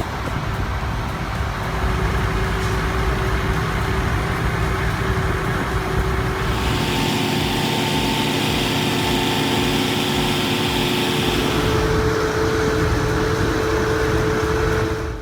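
Heavy truck engine running steadily. A hiss joins it from about six to eleven seconds in, and the engine note steps up slightly about twelve seconds in.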